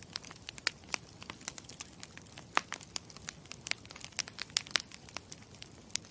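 Campfire crackling: irregular sharp pops and snaps of burning wood over a steady low hiss.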